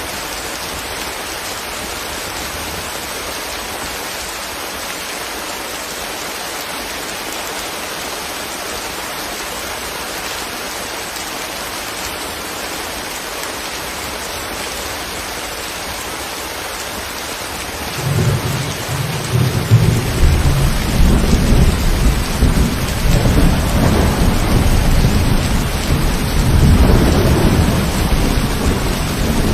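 Steady rain falling, an even hiss. About two-thirds of the way in a loud, low rumble of thunder rolls in over the rain and keeps rumbling to the end.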